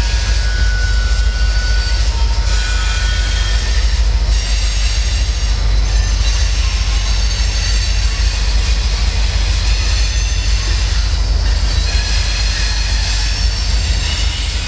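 BNSF manifest freight train rolling across a bridge overhead, its wheels rumbling steadily, with thin high wheel squeals coming and going.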